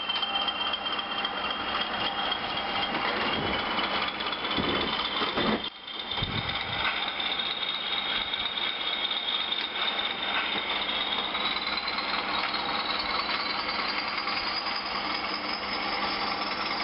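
Class 20 diesel engine sound from a model locomotive's DCC sound decoder, played through the model's small speaker while the engine runs under power as the train pulls away. A high whistle rises slowly in pitch throughout, with a brief drop in level about six seconds in.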